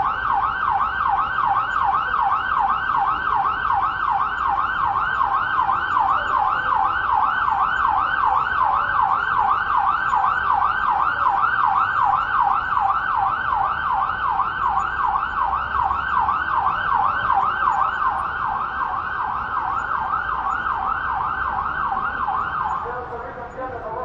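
Electronic emergency-vehicle siren in yelp mode: a fast wail sweeping up and down over and over, cutting off suddenly near the end as a lower-pitched tone begins.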